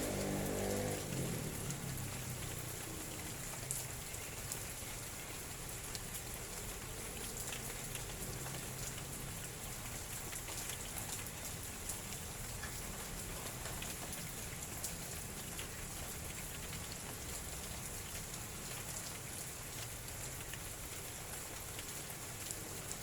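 Steady light drizzle, with scattered drops ticking on surfaces. A low humming sound fades away in the first two seconds.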